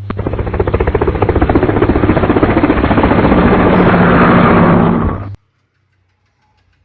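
Noisy ceiling fan running with a fast, rhythmic rattling clatter over a steady low hum, the fault noise the repair is meant to cure; it stops abruptly about five seconds in.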